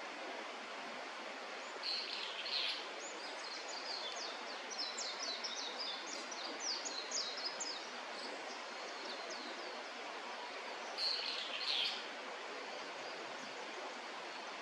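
Small birds calling over a steady background hiss: a short, loud call about two seconds in and again near eleven seconds, with a quick run of many high notes in between.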